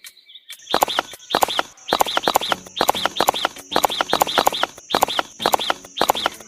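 Chicken calls repeated in a quick, even series, about three a second.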